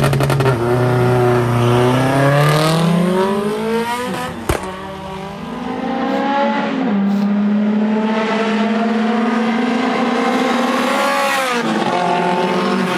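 A turbocharged 1.8-litre 20-valve four-cylinder engine of a Mk2 Golf accelerating hard, its pitch climbing for a few seconds. There is a sharp click about four and a half seconds in, then the engine pulls and climbs again more slowly before the revs drop near the end as it lifts off.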